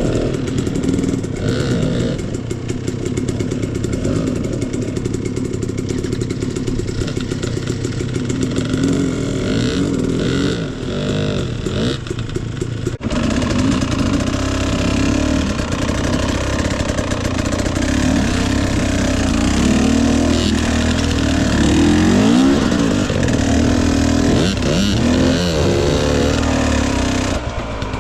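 Dirt bike engine running under load, the revs rising and falling in blips on a rough trail, with stronger revving about eleven seconds in and again past the twenty-second mark.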